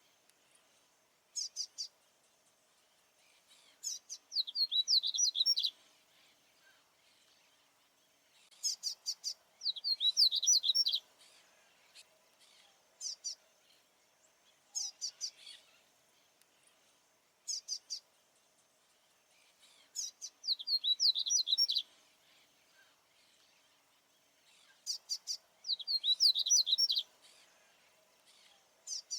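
Male papa-capim baianinho seedeater singing its territorial song, repeating phrases every few seconds: a few short high notes, then in the longer phrases a quick run of falling whistled sweeps, about two seconds long.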